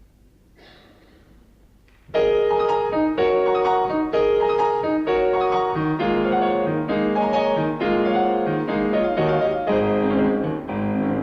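Solo piano playing the introduction to a song, entering about two seconds in after a quiet pause.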